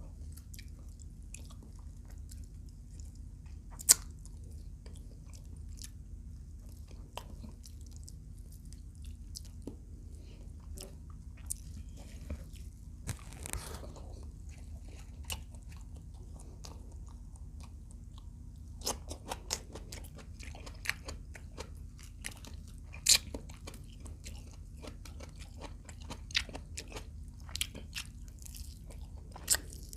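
Chewing and crunching of fried adobo quail: scattered sharp crunchy bites, a few loud single ones and more frequent ones in the last third, over a steady low hum.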